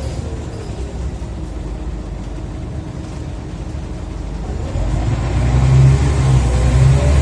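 Scania OmniCity bus's diesel engine and ZF automatic gearbox heard from on board. At first it runs lighter with a falling gearbox whine, then about two-thirds in the engine takes load and gets louder while a rising whine builds as the bus accelerates.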